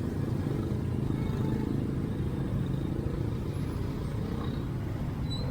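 Road traffic passing close by: vehicle engines make a steady low hum with no sharp events.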